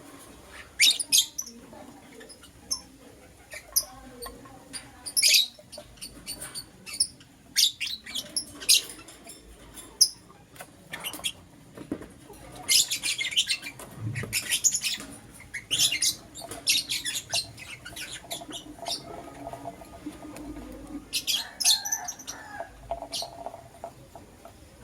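Pet lovebirds chirping: short, sharp, high-pitched chirps in irregular bursts, some in quick clusters.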